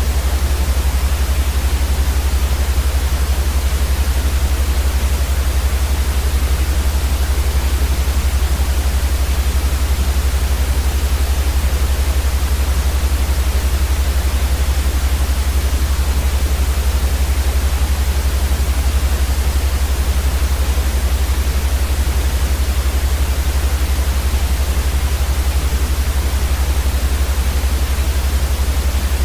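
Steady, unchanging white noise for sleep: an even hiss across the whole range with a strong low rumble underneath.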